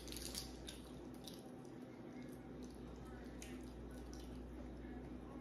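Faint wet eating sounds of someone chewing seafood, with soft scattered clicks and smacks every second or so.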